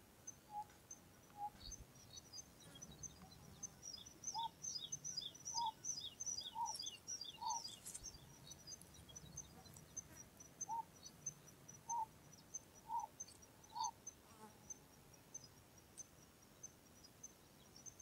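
Wild birds calling: series of short whistled notes about a second apart, coming in groups of about four, over bursts of rapid high chirping and a steady high ticking.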